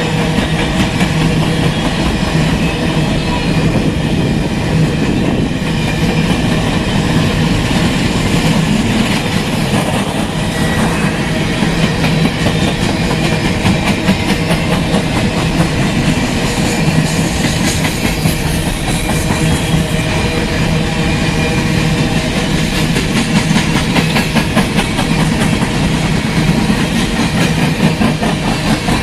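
Freight train cars rolling past: a continuous clatter and rumble of steel wheels on the rails, with rapid clicking over the joints.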